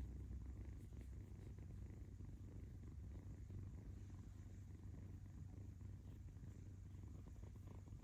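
Kitten purring: a steady, low rumble.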